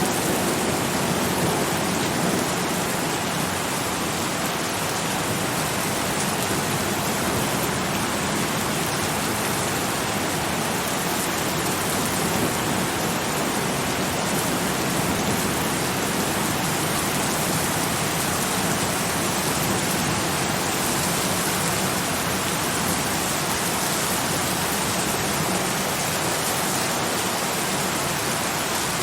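Steady rain falling on a surface, an even hiss with no breaks or individual drops standing out.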